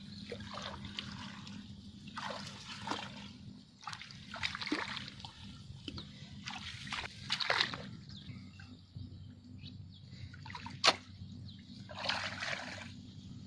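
Water splashing and sloshing in irregular surges, with a single sharp knock about eleven seconds in.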